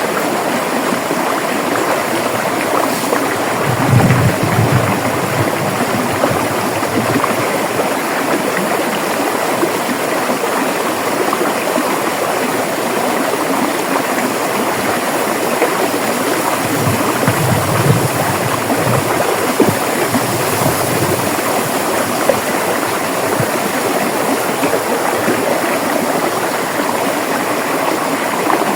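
River water running steadily, with two brief deeper swells, about four seconds in and again past the halfway point.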